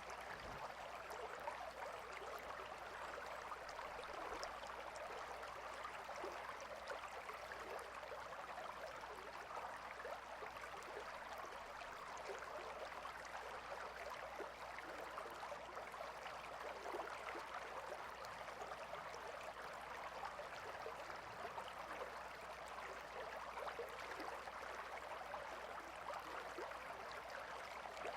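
A gentle river flowing: a steady, even rush of water.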